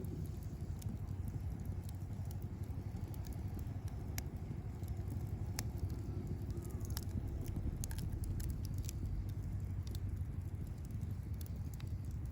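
Wood campfire crackling, with irregular sharp pops and snaps scattered over a steady low rumble.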